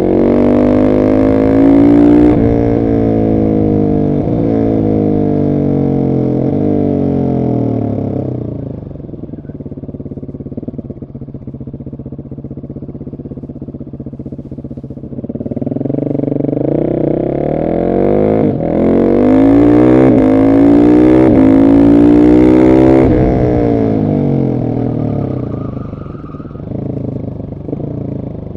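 Husqvarna 701 SM's single-cylinder engine through an Arrow exhaust, decat, pulling hard and revving up, then dropping in pitch as the throttle comes off. It runs quieter for several seconds, climbs again in a second hard pull from about halfway with a short break near the top, and falls off near the end.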